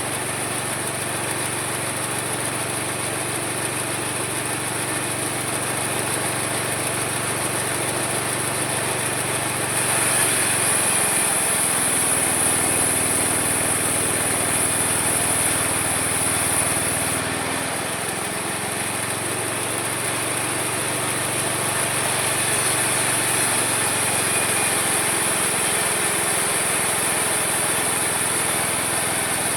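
Homemade mini sawmill running steadily with a high whine over a low hum. From about ten seconds in, for some seven seconds, it gets louder and the hum drops in pitch, as the saw takes the load of a cut, then picks back up.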